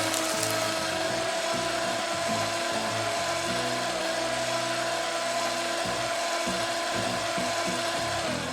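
Power tool sound effect running steadily with a hissing whine, its pitch dropping as it winds down near the end.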